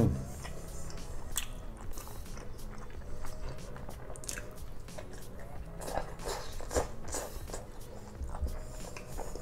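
A person chewing soft grilled giant squid close to the microphone: scattered wet chewing and mouth clicks. A brief loud mouth sound comes at the very start.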